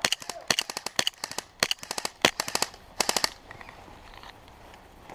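Airsoft guns firing a rapid string of sharp pops and short bursts for about three seconds, then stopping.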